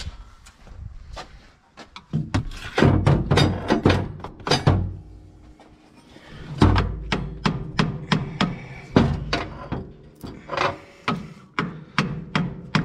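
Irregular series of sharp knocks and clatter from hand tools striking and working on metal tractor parts, coming in two bursts of activity with a short lull between.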